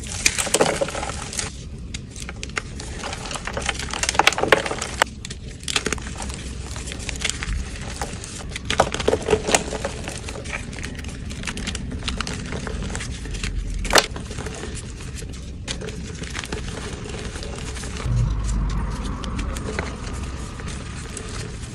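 Gym chalk being crushed, with irregular crisp, crunchy crackles, heavier bursts of crunching about four and nine seconds in, and a single sharp snap about fourteen seconds in.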